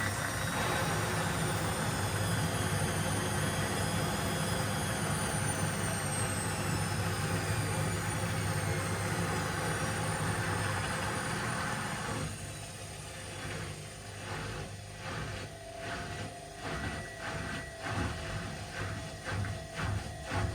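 Washing machine in its spin cycle: the drum spins fast with a steady whoosh and a high motor whine that slowly falls in pitch. About twelve seconds in, the whoosh drops away and gives way to a rhythmic pulsing of about one and a half beats a second as the drum slows.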